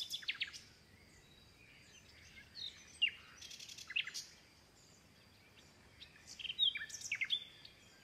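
Birds calling in short, sharp chirps that slide down in pitch, a few scattered ones and then a quick cluster near the end, over a faint outdoor hush.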